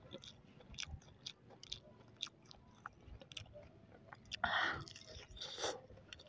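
Mouth-close chewing of a breadcrumb-coated, deep-fried balut (boiled fertilised duck egg), heard as many soft, quick clicking mouth sounds, with a louder breathy rush about four and a half seconds in and again shortly after.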